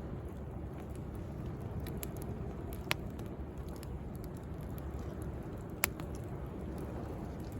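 Wood bonfire crackling, with scattered sharp pops, the two loudest about three and six seconds in, over the steady low rush of sea waves.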